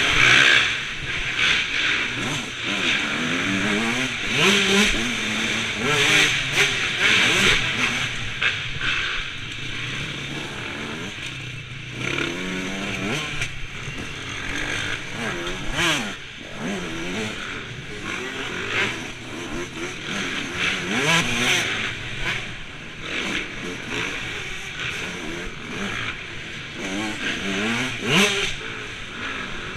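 Motocross bike engines revving up and down again and again, the pitch rising and falling every second or two.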